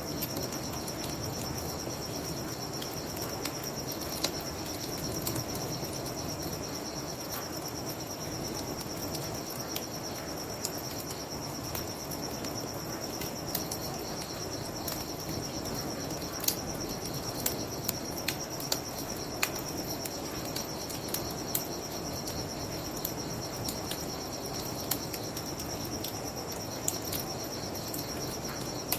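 Crickets chirping in a steady high trill, over a wood fire crackling with sharp pops scattered irregularly throughout, and a steady low rushing haze beneath.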